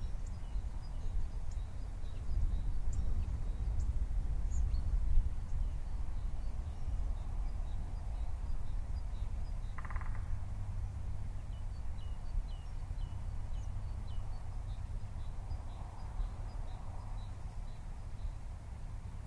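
Small birds chirping repeatedly, short high calls, over a constant low rumble typical of wind on the microphone. A single lower, harsher call stands out about ten seconds in.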